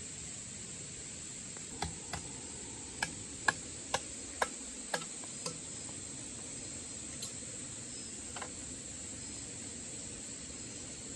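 Steady high-pitched insect drone. Over it come about eight sharp knocks roughly half a second apart, starting about two seconds in and stopping after about five and a half seconds.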